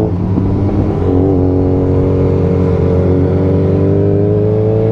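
Suzuki GSX-S motorcycle engine pulling away under acceleration, its note rising slowly and steadily, over wind and road noise.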